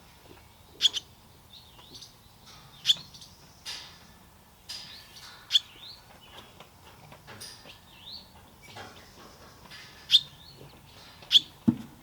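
Small birds chirping: loud, sharp single chirps every few seconds, with fainter short rising and falling notes in between.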